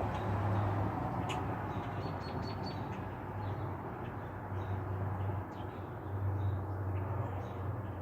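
Birds give short, high chirps, a quick run of them a couple of seconds in and fainter ones later. Under them runs a steady low rumble and a rushing noise.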